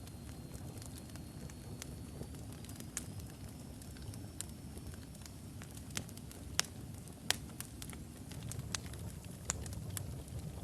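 Wood fire of burning logs in a fireplace: a steady low rumble of flames with irregular sharp crackles and pops, two louder pops past the middle.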